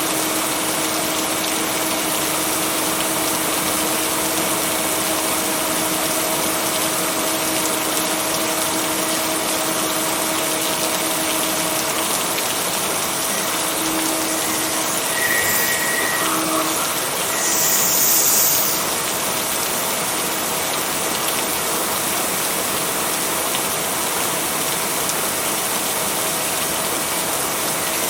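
Steady rain falling, an even hiss, with a faint steady hum beneath it. A brief louder swell of hiss comes a little past halfway; no thunder is heard.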